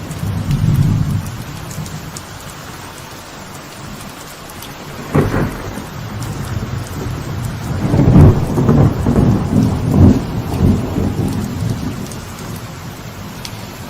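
Light rain falling steadily on a veranda, with thunder: a low rumble dying away at the start, a sharp crack about five seconds in, then a long rolling rumble, the loudest part, building and fading over the next few seconds.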